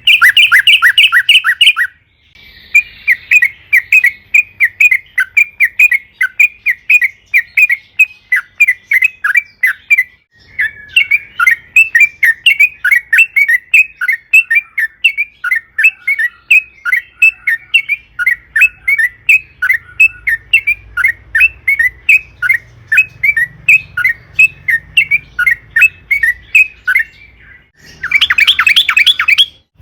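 Yellow-vented bulbul (trucukan) song: long runs of quick, repeated bubbling notes, about three a second, broken by short pauses about two seconds in, about ten seconds in and near the end.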